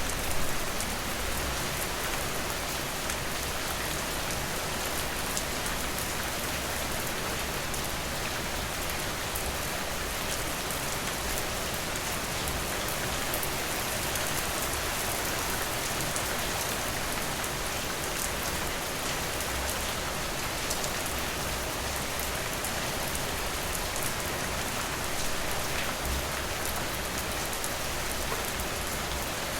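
Steady rain falling, with scattered drops ticking through the hiss and a couple of louder taps just after the start.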